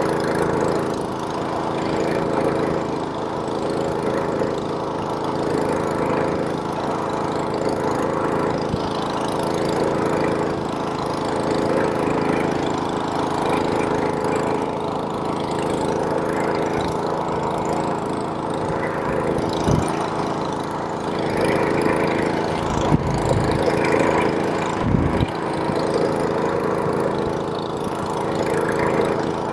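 Small-engine snowblower running steadily, a constant engine drone, with a few low thumps about two-thirds of the way through.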